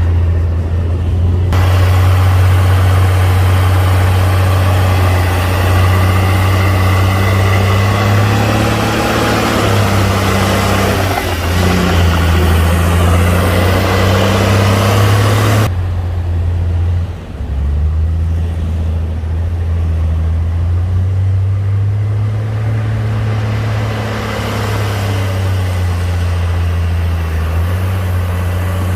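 Heavy diesel engine of earthmoving machinery running under changing load, its pitch rising and falling. A loud rough noise lies over the engine through the first half and stops abruptly about halfway through, leaving the engine running on its own.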